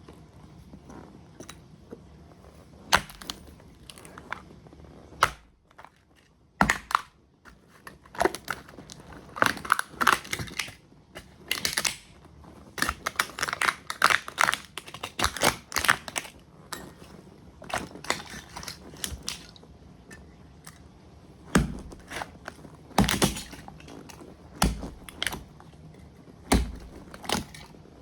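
A model truck being crushed under motocross boots: scattered sharp cracks and crunches, a dense run of crackling in the middle, then several heavier stomping thuds near the end.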